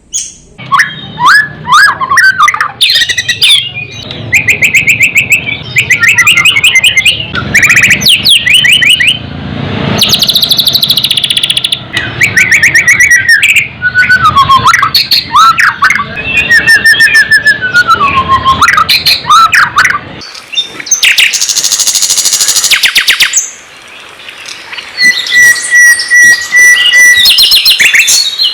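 Loud, varied songbird song played as a tutor (masteran) recording for training a white-rumped shama: fast chattering trills, strings of sharp repeated chirps and gliding whistled phrases. Near the end a steady whistled note is held for a couple of seconds.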